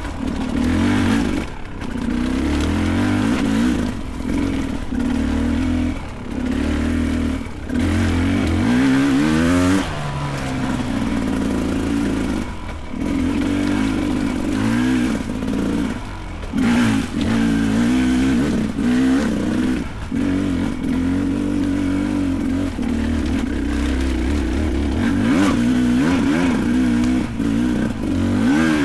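Beta 300 Race Edition two-stroke dirt bike engine revving up and down under load on a steep rocky climb, the throttle blipped and chopped every few seconds.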